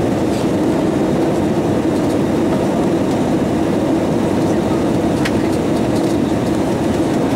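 Steady rumble inside the cabin of an Airbus A320 airliner, with a few faint clicks.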